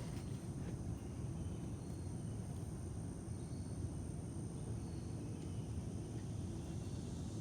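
Steady outdoor background noise: a low rumble with a thin, high, steady tone and a few faint chirps.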